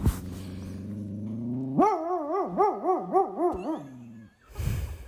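A dog vocalising: a low, drawn-out groan that rises slightly, then breaks into a higher, wavering howl for about two seconds, followed by a short breathy huff near the end.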